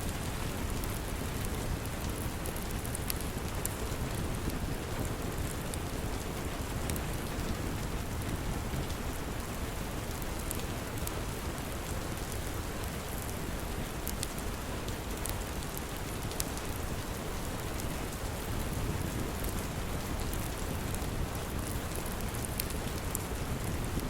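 Steady rain with a low rumble underneath, and scattered small crackles of a wood fire.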